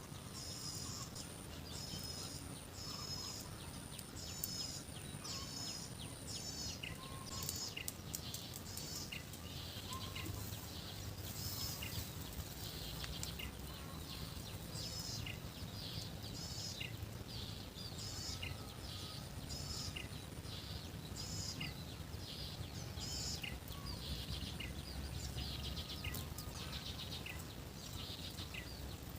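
Rural outdoor ambience: birds chirping with many short, repeated calls throughout, over a low steady background rumble, with a thin high steady tone during the first several seconds.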